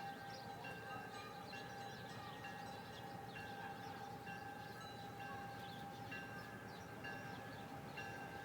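Railroad crossing signal bell ringing in a steady repeating pattern, a little more often than once a second, over a steady tone as a train approaches. The train itself is not yet loud.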